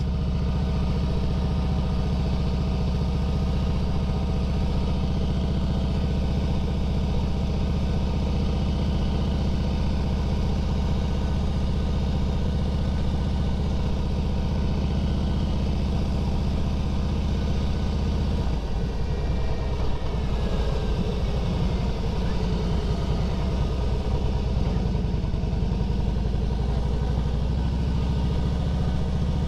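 Harley-Davidson Fat Boy's V-twin engine running steadily while the motorcycle is ridden. Its note changes and turns more uneven about two-thirds of the way in.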